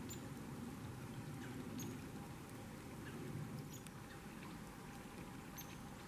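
Faint, short, high chip notes from small birds, about four of them a couple of seconds apart, over a low steady background rumble.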